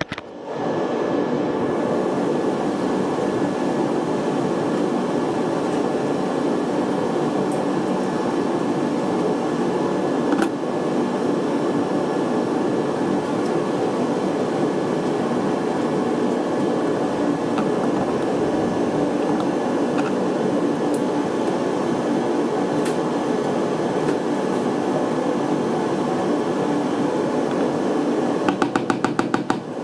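A steady machine drone with a faint high whine running through it. Near the end a rapid, evenly spaced run of clicks starts.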